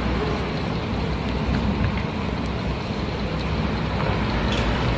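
Steady city street traffic noise: a continuous rumble of passing cars and buses.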